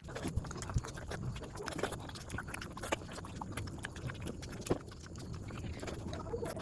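Close-miked eating sounds: wet chewing and smacking of curry and rice, with many small clicks.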